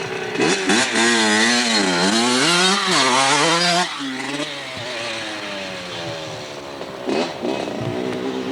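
Dirt bike engine revving up and down hard for the first few seconds, then dropping back to a quieter, lower run with slow changes in pitch.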